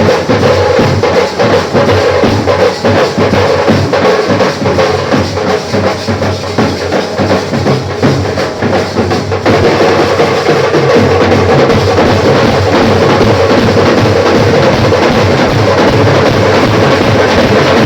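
A live band playing loud music led by fast, heavy drumming over a held melody line. About nine and a half seconds in, the beat turns steadier and denser.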